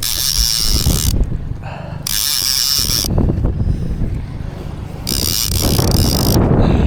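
Fishing reel being cranked in three bursts of about a second each, its gears and line giving a high whirring rasp as a fish is reeled in. Low wind and wave rumble runs underneath.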